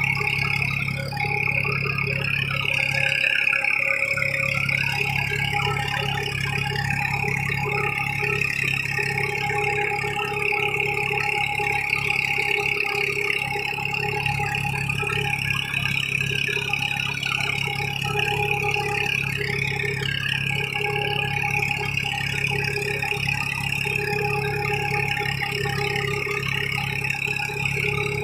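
Tractor engine running steadily while pulling a cultivator through a field, with a constant drone that barely changes.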